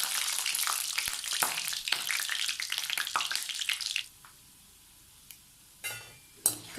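Chana dal and urad dal with mustard seeds frying in hot oil, a steady sizzle full of fine crackles. The sizzle cuts off abruptly about four seconds in, and a few sharp knocks follow near the end.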